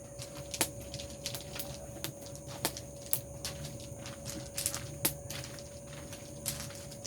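Bonfire crackling, with irregular sharp pops a few times a second over a steady faint tone.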